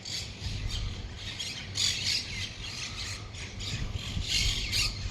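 Small birds chirping and squawking in short, irregular bursts, over a steady low background hum.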